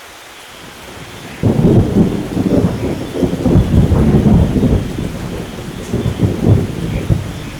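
Steady rain, with a clap of thunder breaking in about a second and a half in and rolling on as a long low rumble that slowly eases off near the end.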